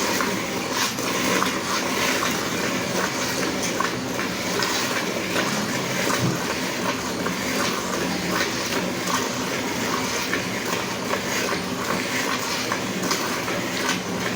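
A cow being milked by hand: streams of milk squirting into a pail in a quick, uneven rhythm of short strokes.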